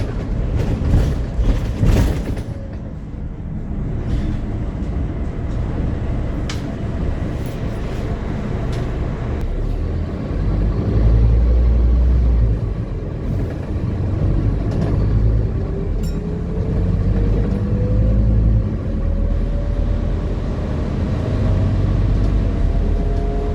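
Scania E400 double-decker bus running, with a heavy low engine rumble and a few knocks and rattles in the first couple of seconds. Over the last several seconds a whine rises steadily in pitch as the bus gathers speed.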